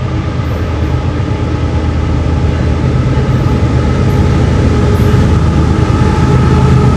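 Diesel locomotive engine running with a steady hum, growing steadily louder as the train approaches.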